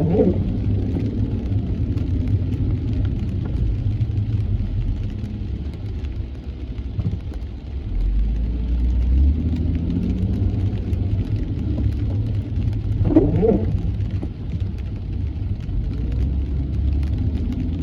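A car driving in the rain, heard from inside: a steady low road and engine rumble with faint hiss. Two brief wavering sounds come through, one at the very start and one about 13 seconds in.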